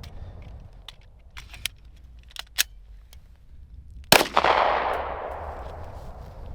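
A single gunshot about four seconds in, with a long echoing decay, fired in a timed shooting drill. Fainter sharp clicks come before it.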